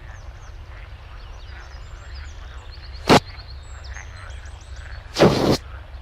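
Frogs croaking close by: one short loud croak about three seconds in and a longer one about five seconds in, over faint high chirping bird calls.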